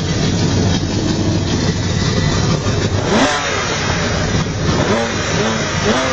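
Supercar engine revving: a sharp climb in revs about three seconds in, then a run of short, quick rises in pitch.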